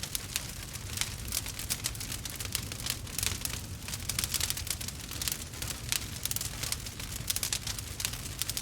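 Burning wood fire crackling and popping: a dense, irregular run of sharp snaps over a steady low rumble of the flames.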